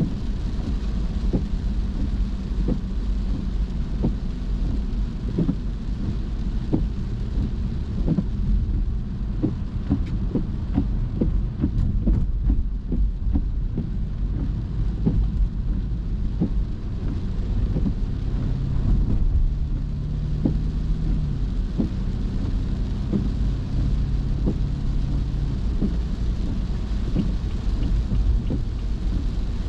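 Car driving through rain: raindrops tick against the car over a steady low road and engine rumble.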